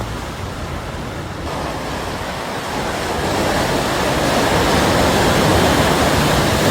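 Floodwater rushing and splashing against an SUV as it drives through deep water, a steady rushing that grows louder from about a second and a half in.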